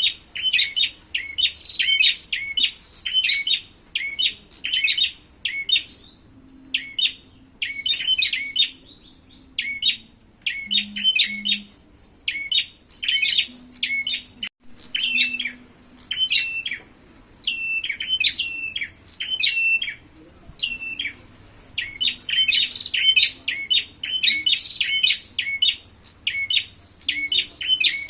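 Prenjak (prinia) birds calling in a fast, agitated exchange of sharp, high chirps, repeated in quick runs with short pauses: the calls of prenjak fighting.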